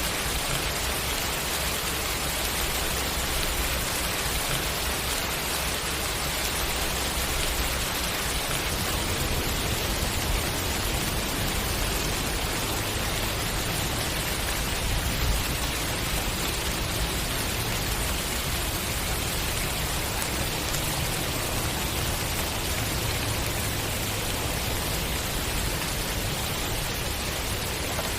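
Steady, dense rain falling, an even hiss of drops on surfaces with a low rumble underneath.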